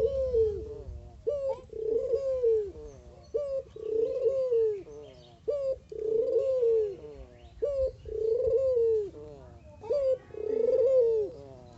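Puter (Barbary dove) cooing over and over. Each phrase is a short rising note followed by a longer arched coo, repeated about every two seconds, five times.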